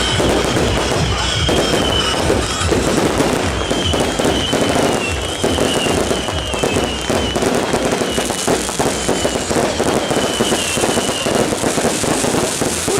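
Dense, continuous barrage of bottle-rocket and firecracker cracks from a beehive-rocket (蜂炮) launch, with a wavering high whistle on and off over it until near the end.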